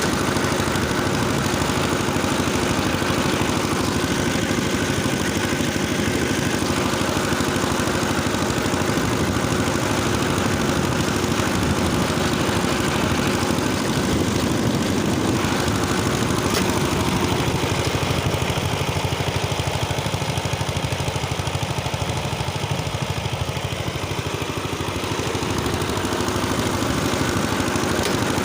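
Engine of a rotary tiller (фреза) running steadily while tilling soil, easing slightly during the last third.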